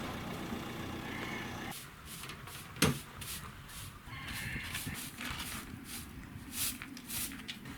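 A single sharp knock about three seconds in, then a run of short clicks and rustling handling noises over a steady low background.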